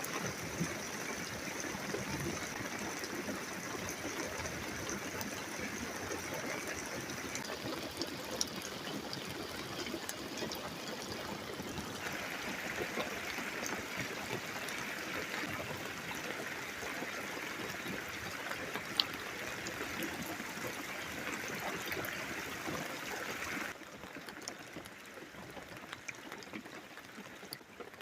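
Steady rain falling during a thunderstorm, heard as an even hiss that drops suddenly to a quieter hiss near the end.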